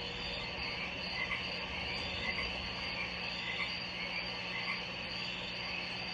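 Fish tank ambience: the steady hum and hiss of the aquarium's running equipment, with small short chirping blips scattered irregularly throughout.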